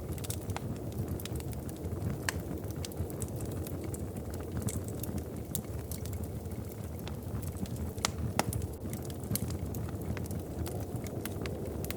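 Wood fire crackling in a fireplace, with irregular sharp pops and snaps over a steady low rumble of burning.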